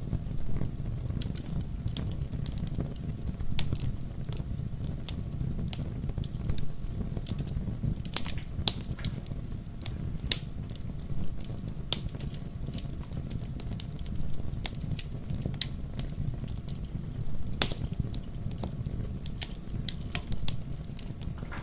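Wood fire crackling in a fireplace: irregular sharp pops and snaps over a steady low rumble of the flames, with one louder pop towards the end.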